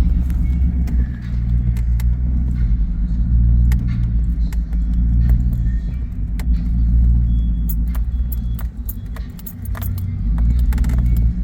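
Vehicle towing a car trailer, moving slowly, heard from inside the cab: a low rumble that swells and fades, with frequent sharp rattling clicks.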